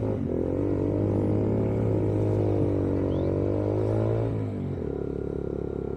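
Yamaha YBR 125G's single-cylinder four-stroke engine running under way, its note wavering slightly and then dropping to a lower, steady note about four and a half seconds in.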